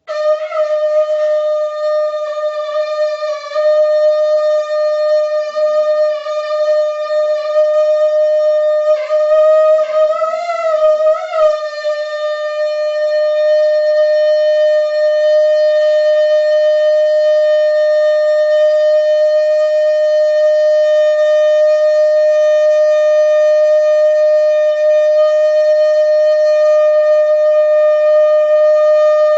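Conch shell (shankh) blown in one long, loud note that starts abruptly. Its pitch wavers for the first dozen seconds, with a few dips and swells around ten seconds in, then settles into a steady held tone.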